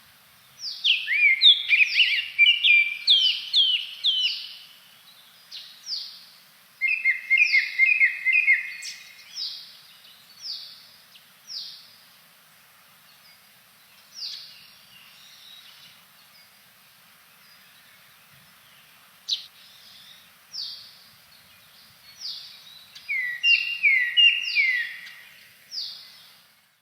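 Blue-and-white flycatcher singing: clear whistled notes that each slide quickly downward, run together into dense phrases near the start, in the middle and near the end, with single notes and short pauses between.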